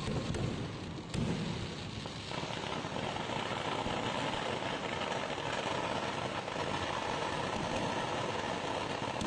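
Fireworks: scattered cracks in the first second, then from about two seconds in a dense, unbroken roar of rapid-fire explosions, as in a sustained barrage of a temple-festival fireworks display.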